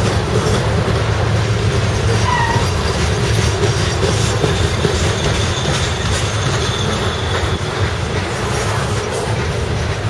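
CSX ore train's cars rolling past on the rails, a steady loud rumble of wheels on track, with a faint high wheel squeal in the middle stretch.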